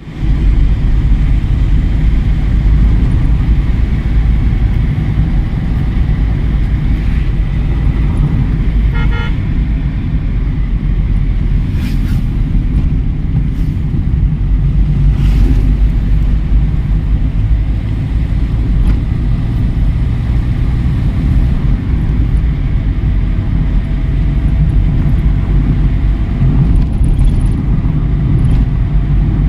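A car driving along a rough road, with a loud, steady low rumble of road and wind noise. A short horn toot sounds about nine seconds in, and a couple of brief knocks follow.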